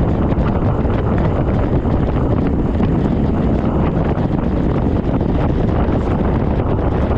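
Wind buffeting the microphone on a fast bicycle descent: a loud, steady rumble with no breaks.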